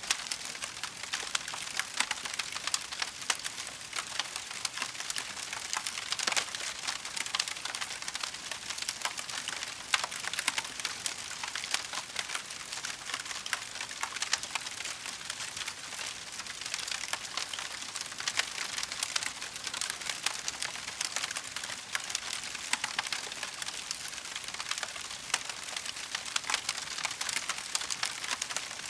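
Wood fire burning in a fireplace: dense, steady crackling and popping of burning logs over a soft hiss.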